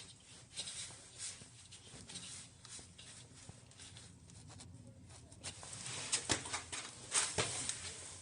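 Light handling noises of small hard objects: scattered clicks, taps and scrapes, with a cluster of sharper clicks about six to seven and a half seconds in.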